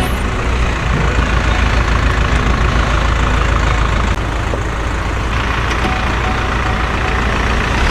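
Large vehicle engine running steadily.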